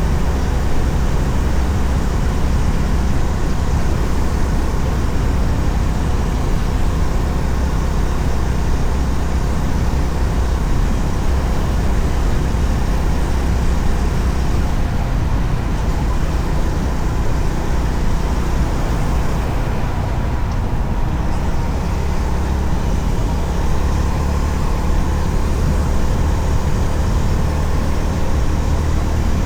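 Honda CB350RS motorcycle cruising at a steady speed: wind rushing over the microphone with engine and road noise underneath, loud and unchanging.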